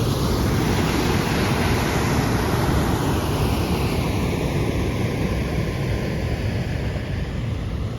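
River in full flood after heavy rain, its water rushing steadily.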